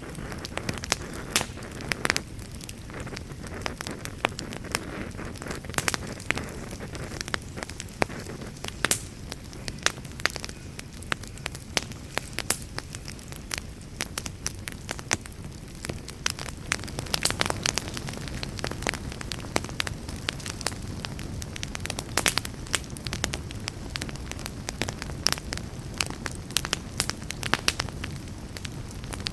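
Wood campfire crackling, with frequent sharp, irregular pops and snaps over a low, steady rush.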